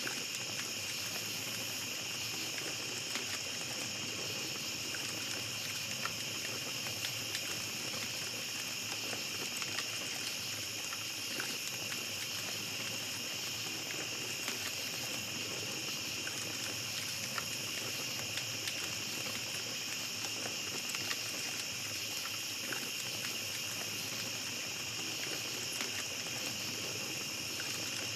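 Steady chorus of night insects in a high, unbroken drone, with a small campfire crackling and popping in short sharp clicks throughout.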